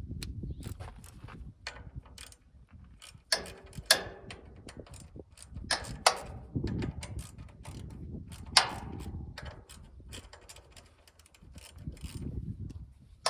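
A 1/4 inch socket ratchet clicking as bolts are worked loose on a small engine's recoil starter. There is low handling noise and a few sharp knocks of tools and parts, the loudest about a third and two-thirds of the way in.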